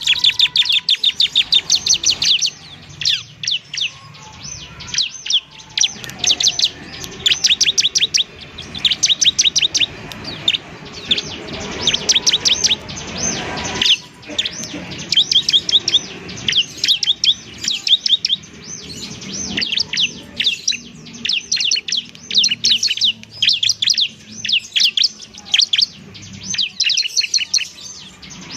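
A female bar-winged prinia (ciblek semi) singing energetically: rapid bursts of sharp, high chirping notes, many per second, broken by short pauses.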